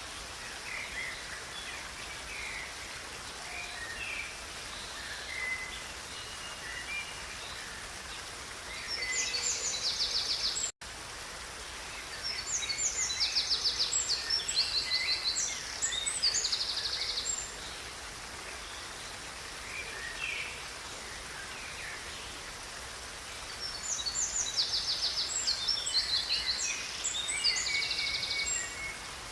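Songbirds singing over the steady rush of river water. Scattered chirps are joined by bouts of fast, high repeated notes: one near 9 seconds in, a longer one from about 12 to 17 seconds, and another from about 24 to 28 seconds. The sound drops out for a split second at about 11 seconds.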